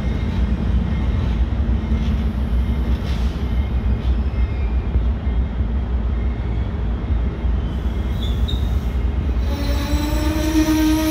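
Amtrak bilevel Superliner passenger cars rolling slowly past, a steady low rumble of wheels on rail. Near the end a sustained squeal, rising slightly in pitch, sets in as the wheels grind against the rails.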